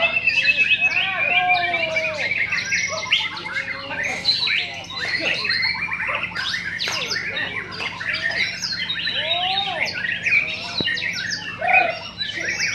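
Several white-rumped shamas (murai batu) singing at once in competition, a dense overlapping chorus of rapid whistles and chirps with no break, over a steady low hum.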